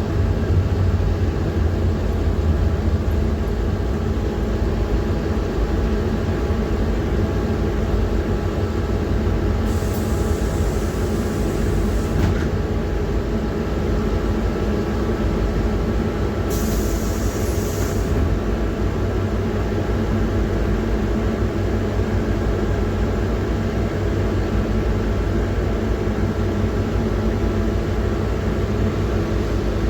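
PAZ-4234 bus running on the road, heard from inside the cabin: a steady drone from its diesel engine and drivetrain with road noise. Two short hisses come about ten seconds and about seventeen seconds in.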